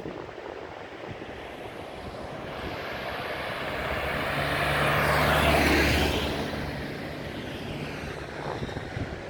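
An engine passes by. It grows louder to a peak just past halfway, carrying a low steady hum, then fades away.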